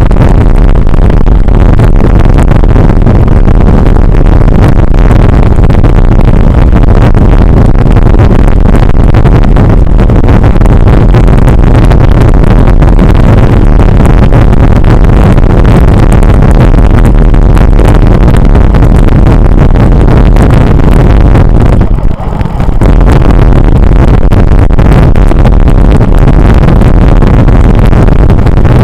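Heavy wind buffeting on the microphone of a camera riding along on a bicycle: a loud, steady rumble that drops away briefly for about half a second a little over 22 seconds in.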